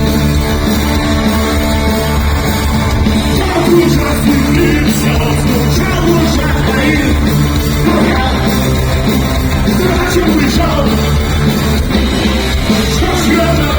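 Live punk rock band playing loud, with a singer's voice over the band from about four seconds in.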